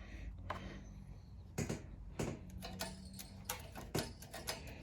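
Scattered light clicks and taps of tools and small parts being handled, with a few sharper knocks.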